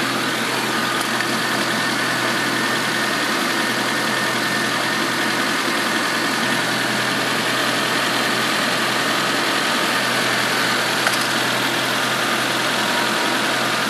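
Hyundai four-cylinder engine idling steadily, heard up close in the open engine bay.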